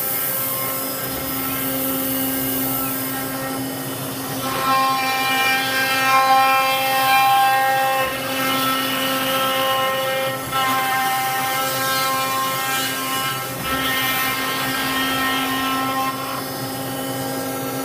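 CNC spindle spinning a 6-inch Blizzard ice-carving bit and cutting ice: a steady whine made of several tones, which turns louder and rougher about four and a half seconds in and then swells and eases.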